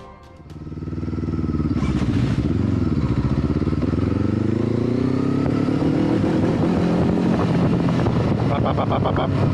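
Motorcycle engine running, its pitch dipping about two seconds in and then climbing steadily as it accelerates, before holding at a higher pitch.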